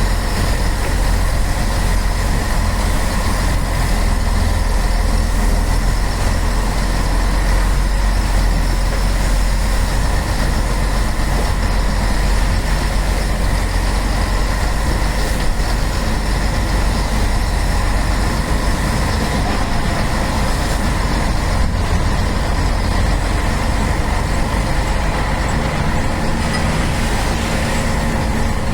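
Scania truck's diesel engine running steadily with a deep, even rumble and a faint steady whine.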